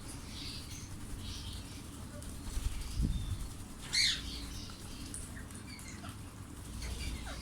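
Indian ringneck parakeets in an aviary: scattered soft chirps, a flurry of low flapping-like sound about three seconds in, and one loud, sharp screech about four seconds in.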